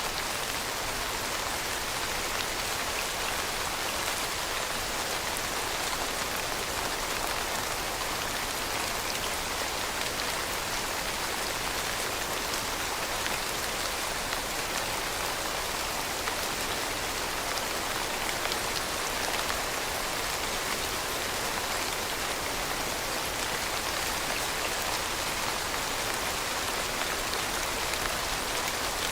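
Steady rain falling, a dense even patter of drops on a surface with no thunder or let-up.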